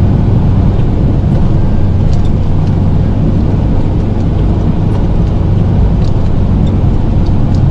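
Plow truck's engine running steadily as the truck pushes snow with its blade, a loud, even low drone.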